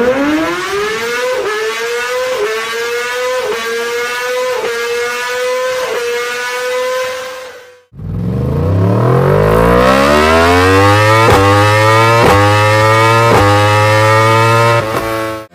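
High-revving sportbike engines. The first climbs to a high steady note that dips briefly about once a second. About halfway through it stops abruptly and a second engine starts low and climbs steadily in pitch over a steady low drone, breaking briefly about once a second.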